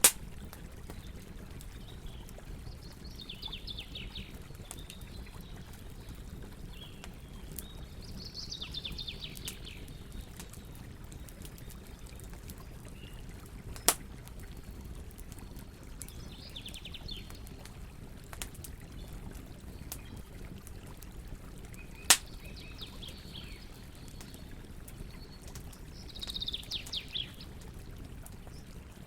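Wood campfire crackling steadily with small snaps, and two sharp loud pops about fourteen and twenty-two seconds in. Over it, birds call in short phrases of quick repeated high notes, about five times.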